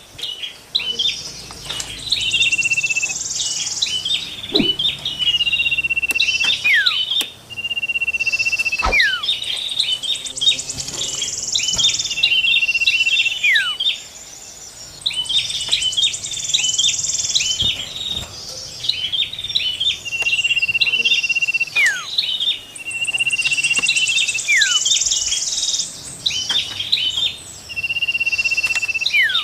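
Songbirds singing in a repeating cycle: a held high whistle note, a run of quick chirps, a whistle that falls in pitch, and a high buzzy trill, over and over every few seconds, as in a looped bird-lure recording.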